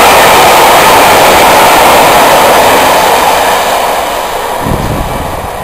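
A train of Pullman coaches running past, with a loud, even rush of wheel and rail noise that fades away over the last couple of seconds as the train draws off.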